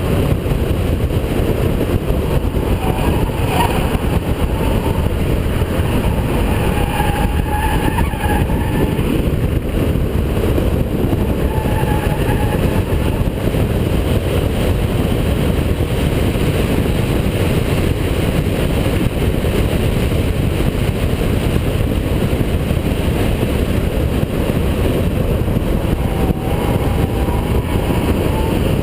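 Holden VP Commodore's V6 engine driven hard around a race circuit, its engine and road noise loud and steady, with brief wavering higher-pitched tones coming in every few seconds.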